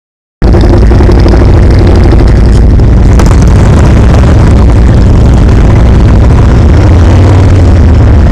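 Motorcycle running steadily on the road, very loud, with a deep rumble and a constant rush of noise over it. It cuts in suddenly just under half a second in.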